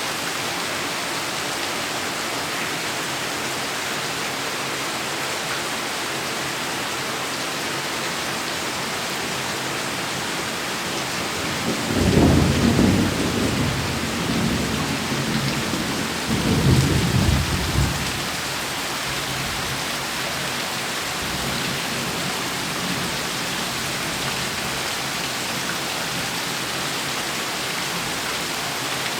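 Heavy rain falling steadily, with a deep rumble of thunder partway through that swells twice over about six seconds, then fades, with a faint further rumble after.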